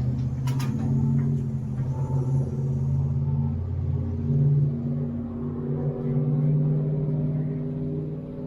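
Steady low rumble of a motor vehicle's engine running, its pitch wavering slightly, with a couple of sharp clicks about half a second in.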